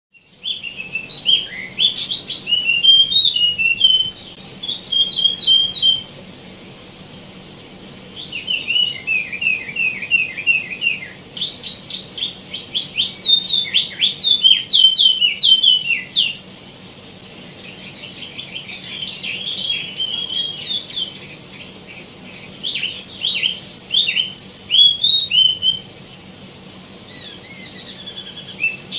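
Small songbird known as the wambi mini (tieumi) singing long, varied bursts of quick, high chirping notes, with short pauses of a second or two between the bursts.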